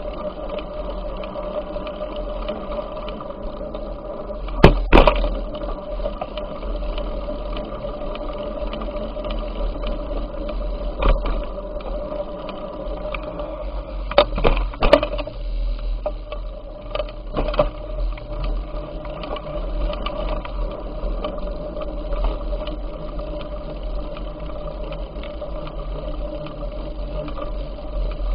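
Steady rolling noise of a bicycle ride with a faint hum, broken by a few sharp knocks and rattles, the loudest about five seconds in and a cluster around fifteen seconds in.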